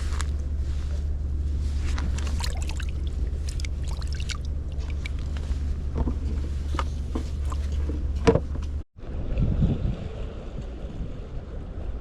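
Wind buffeting the microphone in a steady low rumble, with scattered small clicks and knocks and one louder knock a little after eight seconds. The sound cuts out briefly near nine seconds and comes back with a different, lighter background.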